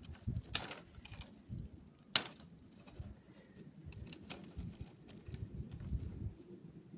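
Irregular knocks, clicks and low thuds of hard objects being handled, such as stones and tools in digging work, with two sharp cracks about half a second and two seconds in.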